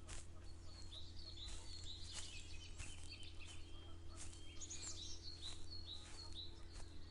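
Small birds chirping and twittering in quick, overlapping short calls, busiest around the middle, over a steady low hum.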